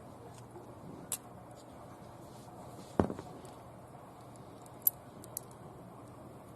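Car key and keyring clicking and jingling at a jammed ignition lock cylinder that will not turn: a few light clicks and one louder knock about three seconds in.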